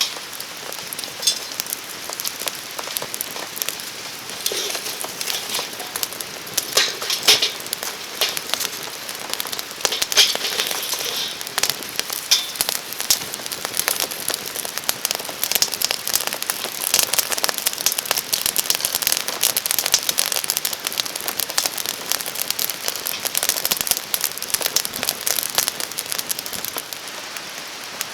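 A wood campfire crackling and popping in the rain, with steady rainfall throughout and denser bursts of crackle a few times.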